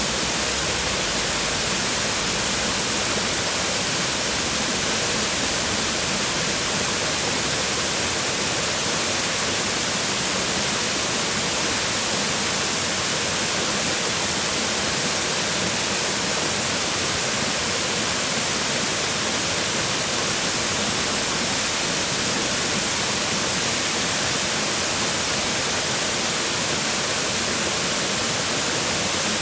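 Waterfall rushing steadily, water falling and splashing onto rocks, an even hiss-like roar that never changes.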